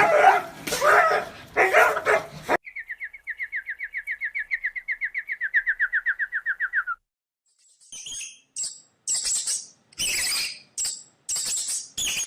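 A dog yipping and whining for the first couple of seconds. Then a bird sings a fast, even trill of quick repeated notes that drifts slightly lower for about four seconds. After a short pause come several short, very high-pitched chirps.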